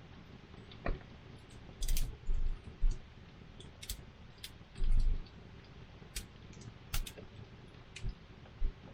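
Wood campfire crackling: irregular sharp pops and snaps over a faint steady hiss, with a couple of low dull thumps about two and five seconds in.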